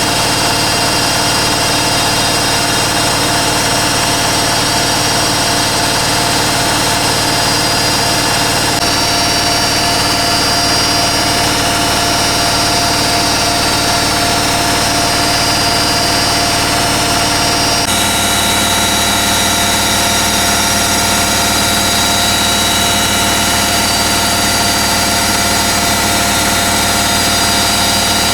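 Hoover Keymatic A3112 washing machine in the final phase of its fast spin, with the motor driving the stainless steel drum at high speed toward 1100 rpm. It is a loud, steady running whine whose pitch pattern shifts in steps about nine and eighteen seconds in.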